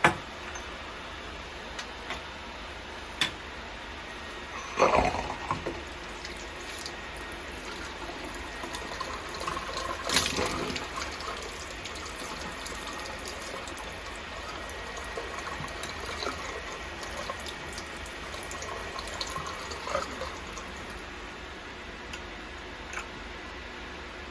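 Water running steadily from a tap into a washbasin, with a few knocks and clunks along the way, the loudest about five and ten seconds in.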